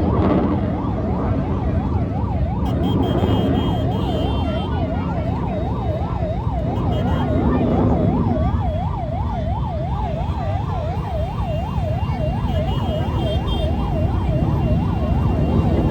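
Emergency vehicle siren sounding in a fast yelp, rising and falling about three times a second without a break, over a steady low rumble of traffic.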